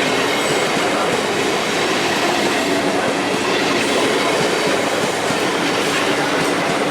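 A train passing close by at speed: a steady, loud rush of wheel and rail noise.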